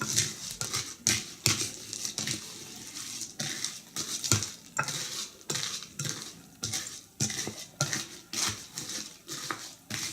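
Utensil stirring Fruit Loops cereal, milk and green food colouring in a bowl, clinking and scraping against the bowl about twice a second.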